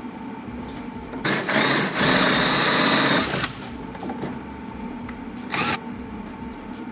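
Power drill running in bursts while boring holes: a short run about a second in, then a longer steady run with a high whine lasting over a second, and one more short burst near the end.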